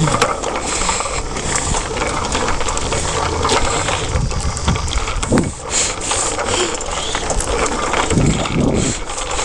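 Steady rumble and rattle of a bicycle being ridden, heard through a head-worn camera's microphone, with many small clicks and knocks.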